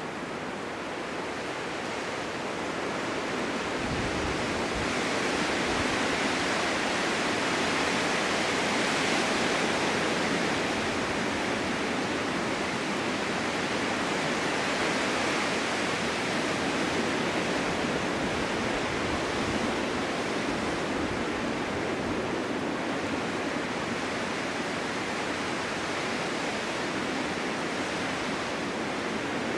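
Winter snowstorm wind blowing snow, a continuous rushing hiss that swells over the first several seconds and then holds steady, with a brief low rumble about four seconds in.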